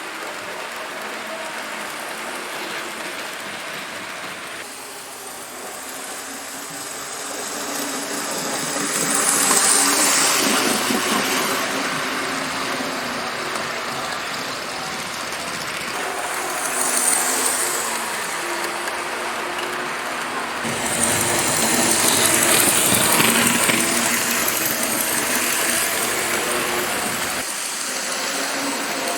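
Two TYCO SD24 model diesel locomotives, each with a small pancake motor in its front truck, running together to pull a freight train: a steady toy-like motor hum with wheels rattling over the track. The sound grows louder three times as the train comes close, then eases off again.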